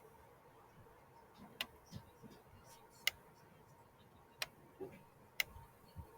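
Wood fire crackling: five sharp, isolated pops at uneven gaps of one to one and a half seconds, over a faint steady hum.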